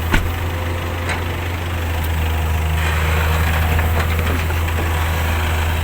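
Motor vehicle engine idling steadily, a low even hum.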